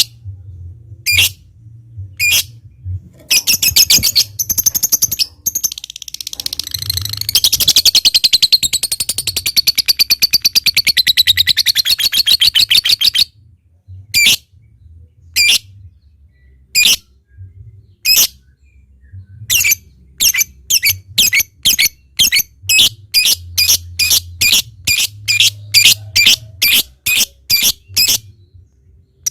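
Lovebird singing: sharp single chirps about a second apart, then a long, very fast chattering trill, the 'ngekek', that runs about six seconds and stops suddenly. The chirps then return and quicken to about two a second near the end, the 'ngetik'.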